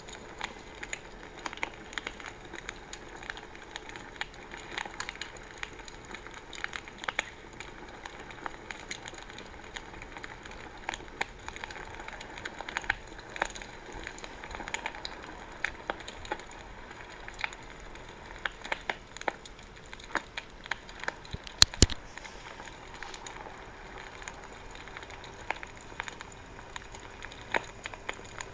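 Wood bonfire burning and crackling, with frequent small irregular pops and one sharp, louder double pop about three-quarters of the way through.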